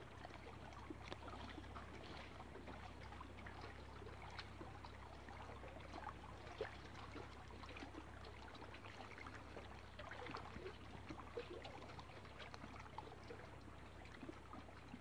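Faint, irregular lapping and trickling of small waves at the water's edge, many little splashes, over a steady low hum.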